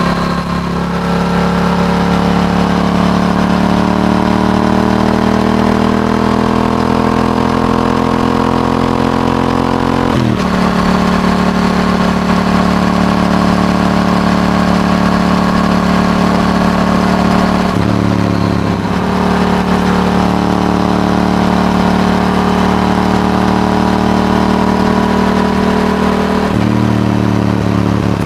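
Yamaha R7's parallel-twin engine through an Akrapovic exhaust, pulling steadily under way. The pitch climbs slowly through a gear, then drops sharply with an upshift about ten seconds in. It then holds fairly steady, with two more brief changes in engine note later on.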